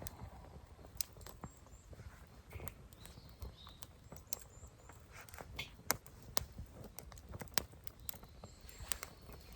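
Campfire of small twigs and dry cedar leaves crackling, with irregular sharp pops one to three a second.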